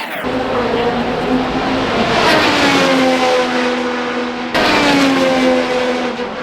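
Race cars passing at speed, the high engine note dropping in pitch as each one goes by. An abrupt cut about four and a half seconds in leads into another pass.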